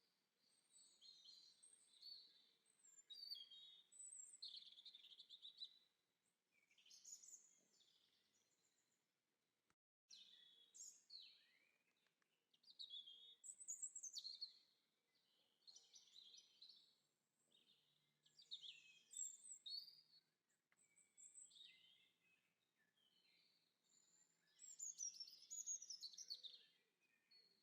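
Faint songbird song: quick, varied high chirps and trills in short phrases with brief pauses between them. The sound drops out completely for a moment just before ten seconds in.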